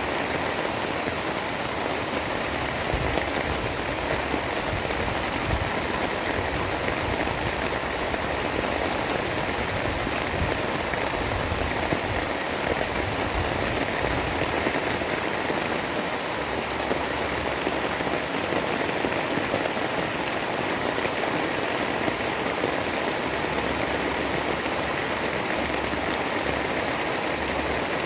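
Steady rain falling, an even rushing hiss with no pauses or thunder claps.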